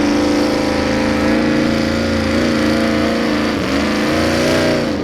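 Mini modified pulling tractor's engine running hard during a pull, its pitch mostly steady with a brief dip and recovery about three and a half seconds in.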